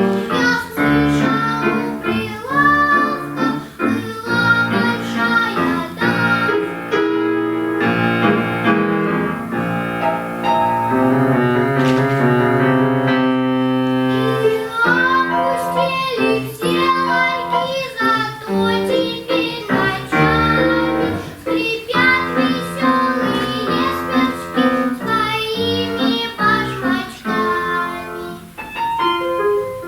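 A young girl singing a children's song in Russian with keyboard accompaniment.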